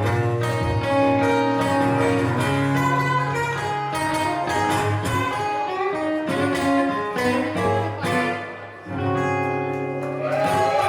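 Live band playing an instrumental outro led by guitar, with sustained chords and a brief drop about eight and a half seconds in before a final held chord.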